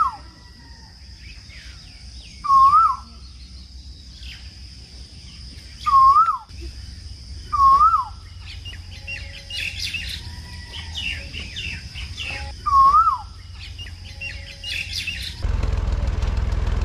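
A bird calling, one short whistled note that dips and rises, given five times at uneven gaps, with smaller high chirps from other birds and a steady high hiss behind. Near the end a tractor engine takes over, running with a steady low rumble.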